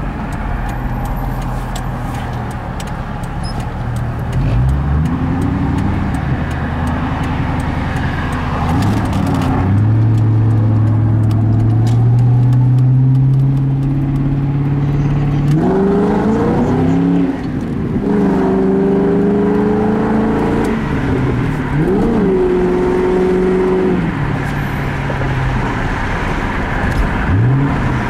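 1999 Ford Mustang GT's 4.6-litre V8 idling and revved up repeatedly, held at raised revs for a few seconds at a time before dropping back. The owner suspects a rod knock.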